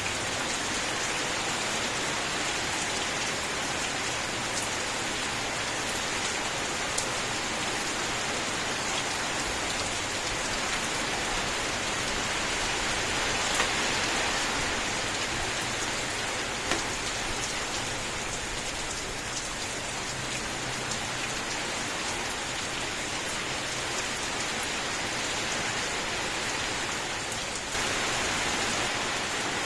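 Steady rain falling, an even hiss of rain with a few sharper individual drops standing out. Near the end the level steps up suddenly and slightly.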